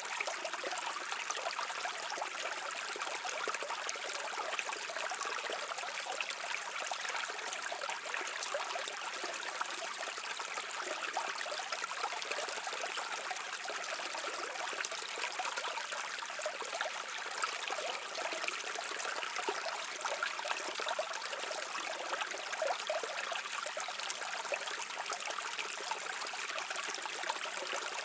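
A small brook flowing over stones: a steady babble of trickling water with fine, quick splashes and little low rumble.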